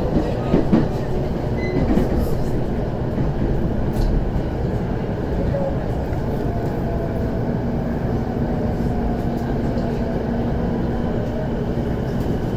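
Running sound of a JR E233-0 series electric train heard from inside the car as it slows into a station: a steady rumble of the wheels on the rails.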